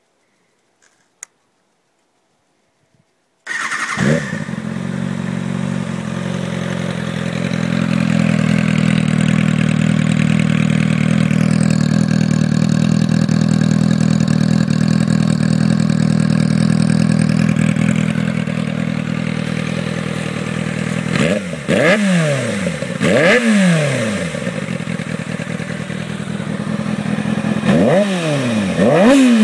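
2007 Kawasaki ZX-6R inline-four motorcycle engine, fitted with a homemade custom exhaust, starting about three and a half seconds in after a few quiet clicks, then idling steadily. It is blipped twice in quick succession about two-thirds of the way through, and twice more near the end, the exhaust note rising and falling with each rev.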